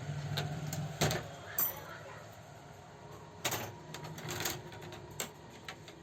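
Sharp metallic clicks and knocks, several scattered and irregular, from hands working on an old Revo overlock sewing machine, over a low hum that drops away after about a second.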